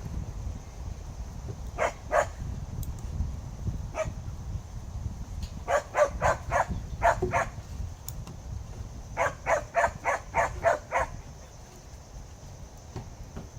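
A dog barking in quick runs of several barks, about four a second, over a steady low rumble.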